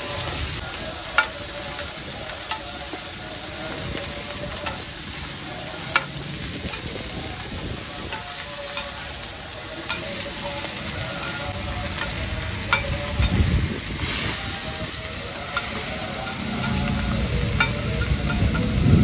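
Seafood omelettes and squid frying in oil on a large flat griddle, sizzling steadily. Metal spatulas click and scrape against the griddle every few seconds.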